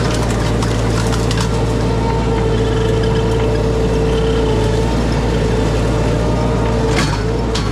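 Mini skid steer engine running steadily under load while its bucket tears at shrubs, with a few sharp knocks and cracks near the start and again near the end.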